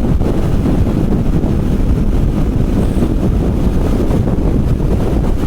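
Wind buffeting the microphone of a motorcycle cruising at about 85 mph, with the bike's running and road noise mixed in as a steady low rumble.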